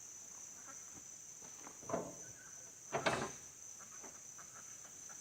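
Two knocks from the truck's hood being lowered, about a second apart, the second louder. Crickets keep up a steady high chirr throughout.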